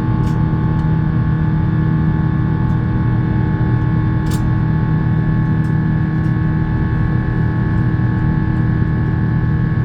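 Airbus A350-900 cabin noise in flight: the Rolls-Royce Trent XWB engines and airflow make a steady, loud rumble with a low hum and several fixed whining tones above it, with a faint click about four seconds in.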